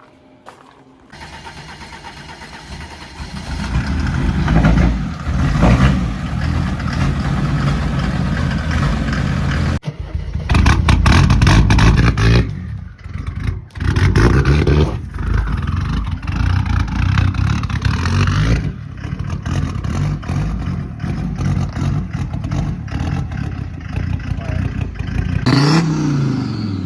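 Big-turbo Mercedes 300D's OM602 five-cylinder diesel on its first start: it cranks and catches about a second in, then runs and revs up and down, the sound breaking off abruptly several times.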